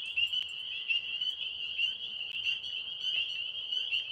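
Chorus of many tree frogs calling at once. Their short, rapidly repeated calls overlap into a steady, high-pitched trilling band, loud and close overhead.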